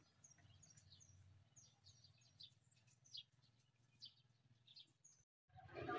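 Faint bird chirps: many short, high calls scattered through, over a low steady hum.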